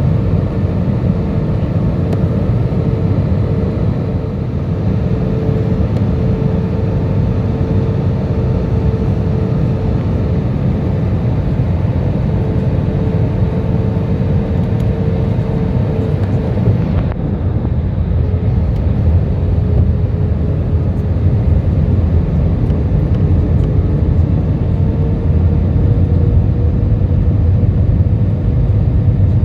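Airbus A320 cabin noise in flight: a steady rumble of engines and rushing air with a faint, even hum. The high hiss drops away suddenly about halfway through.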